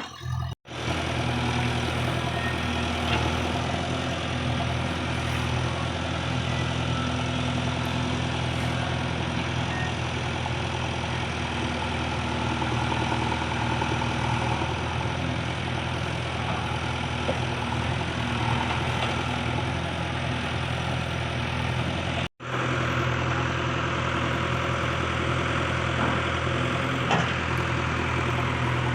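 Diesel engine of a heavy earthmoving machine running steadily at an even speed. The sound drops out for an instant twice, where the footage is cut.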